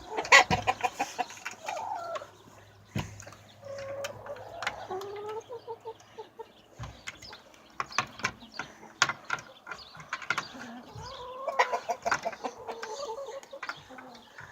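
Domestic hens clucking, with a quick run of clucks about a second in and another near the end, amid scattered sharp clicks and knocks.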